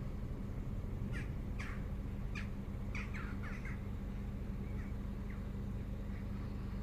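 Peugeot RCZ's 1.6 THP turbocharged four-cylinder petrol engine idling steadily while warming up from cold. A bird squawks several times from about one to four seconds in.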